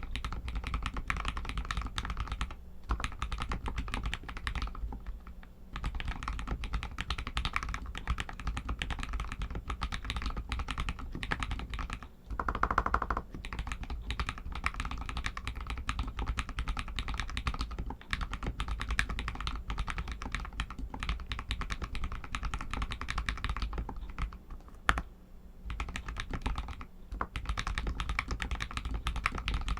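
Royal Kludge RK61 mechanical keyboard with Outemu red linear switches being typed on steadily, a dense, irregular run of keystroke clicks with a few short pauses and a brief louder burst about twelve seconds in.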